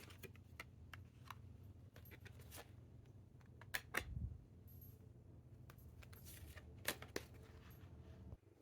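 Tarot cards being handled on a table: faint scattered clicks and soft taps as cards are picked up and laid down, with a couple of slightly louder knocks about four and seven seconds in, over a low room hum.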